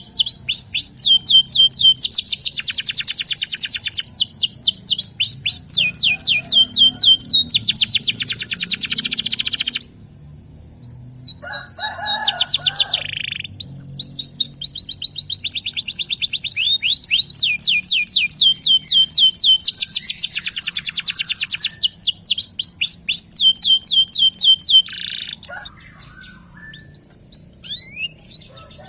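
Domestic canary (local Indonesian kenari) singing long rolling trills of rapid, repeated down-slurred notes. The song breaks off briefly about ten seconds in, then resumes and thins out near the end.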